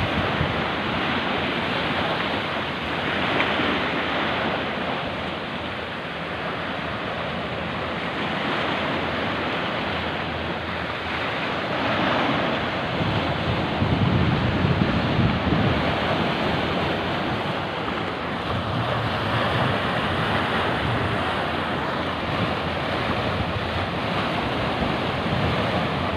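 Rough sea waves surging and breaking, a steady rushing that swells and eases every few seconds, with wind buffeting the microphone.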